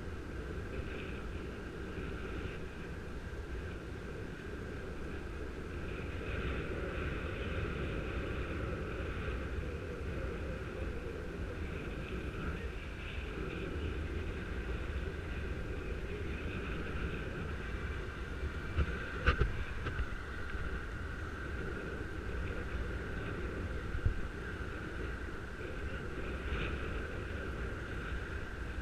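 Wind rushing over a helmet-mounted microphone while riding a bicycle, a steady low rumble with a steady high whine above it. Two short sharp knocks come about two-thirds of the way through.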